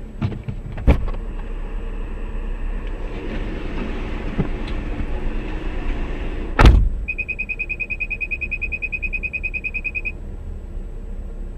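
Car collision heard from inside a vehicle: one loud sharp bang about two-thirds of the way through, over steady road and engine noise, with a smaller knock about a second in. Right after the bang comes about three seconds of rapid, high electronic beeping.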